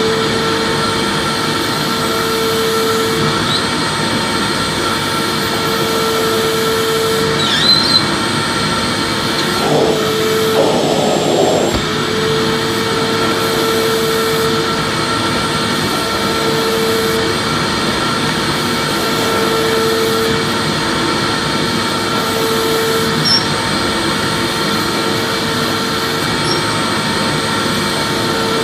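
Vacuum cleaner running steadily: an even rush of air with a constant motor whine, and a lower hum that comes and goes every few seconds. There is a brief rattle about eight seconds in and another about eleven seconds in.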